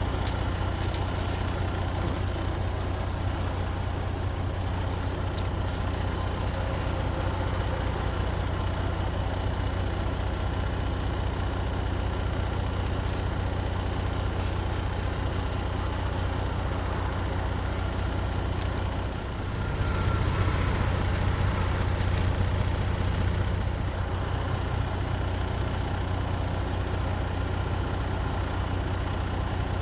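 Semi truck's diesel engine idling with a steady low hum, getting somewhat louder for a few seconds about twenty seconds in.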